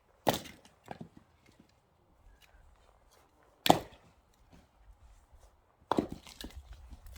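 Axe splitting firewood: three sharp blows a few seconds apart, each followed by lighter knocks of the wood.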